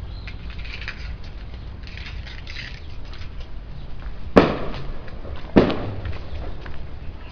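Two sharp bangs about a second apart, each ringing briefly, over a low steady rumble.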